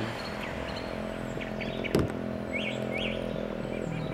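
Birds chirping in short, falling chirps, mostly about two-thirds of the way in, over a steady low hum. A single sharp click comes about two seconds in.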